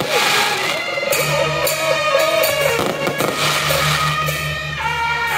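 Firecrackers crackling in two rapid bursts, the first at the start and the second about three seconds in, over loud festival music with held tones and a pulsing low beat.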